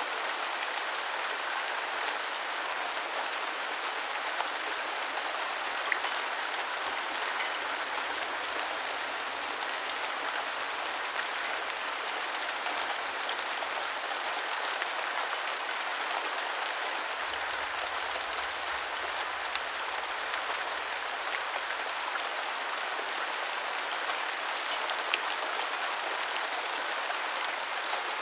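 Steady rainfall: an even hiss with many small, sharp drop ticks scattered through it.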